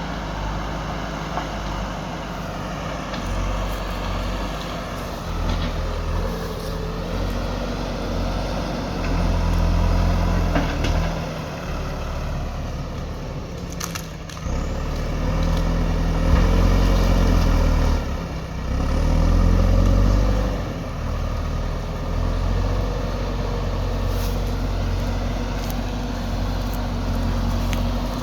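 JCB 3DX backhoe loader's diesel engine working under load, its revs rising and falling in several swells as the hydraulics are worked, with a sharp knock about halfway through.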